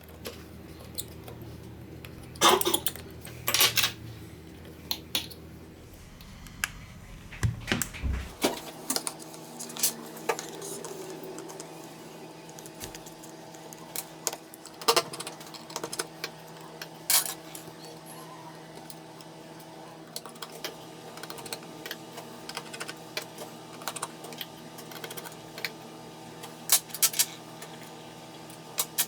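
Small metal repair tools clicking and tapping against an iPhone 6 Plus's case and parts while it is taken apart, irregular light clicks with a few sharper ones, over a steady electrical hum.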